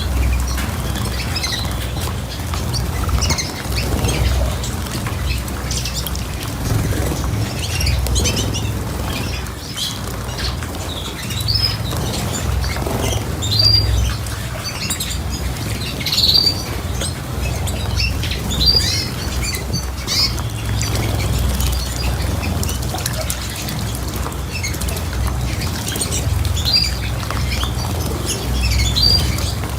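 Small cage birds calling: scattered short chirps and squawks, several a second at times, over a steady low rumble.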